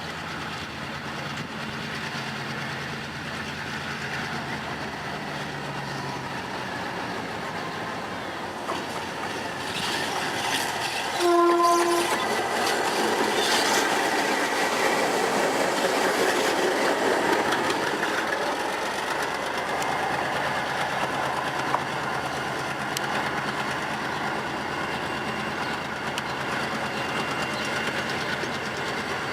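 G22 diesel locomotive shunting: its engine running steadily, one short horn blast about eleven seconds in, then the rumble and clatter of wheels on the rails as it moves, easing off later.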